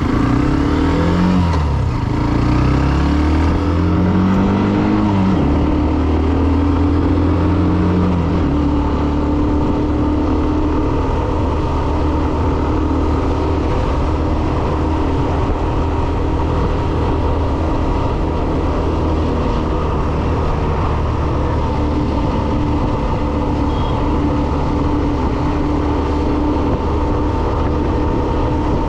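Hero Xtreme 125R's single-cylinder engine while riding: revs rise and fall several times through the first eight seconds or so, then it settles into steady cruising with a constant rush of road and wind noise.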